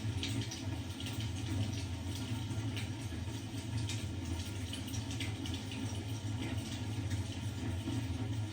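Fireplace crackling: irregular small snaps and pops over a steady low rumble.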